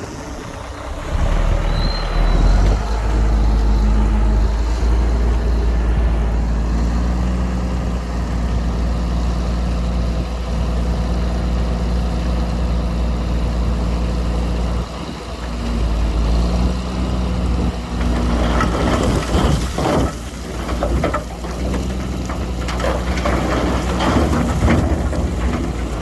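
Heavy diesel earthmoving machinery running steadily, with a low engine drone. From about two-thirds of the way in, irregular clanking and knocking joins it.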